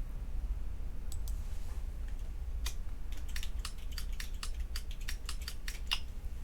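Typing on a computer keyboard: a couple of keystrokes about a second in, then a quick, uneven run of keystrokes until near the end, over a steady low hum.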